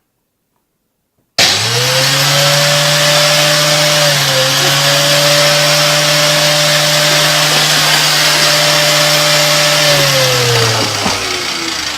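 A loud electric motor switches on abruptly about a second and a half in and runs with a steady hum and strong whir. Near the end its pitch falls as it winds down.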